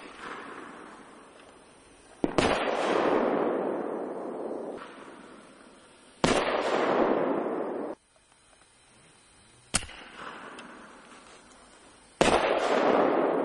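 Consumer fireworks cake firing 48 mm shells: a sharp bang every few seconds, some in quick pairs. Each bang is followed by a few seconds of crackling hiss that slowly fades.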